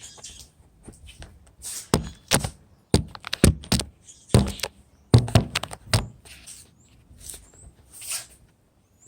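A series of irregular knocks and clunks, several loud ones between about two and six seconds in, like hard objects being handled and set down.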